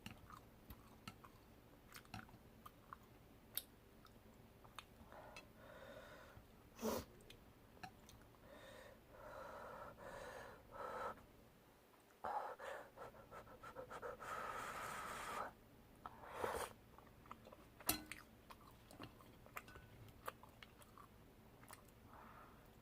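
Close-miked eating of spicy soup tteokbokki: irregular chewing and wet mouth noises with scattered sharp clicks, in several louder stretches of about a second each.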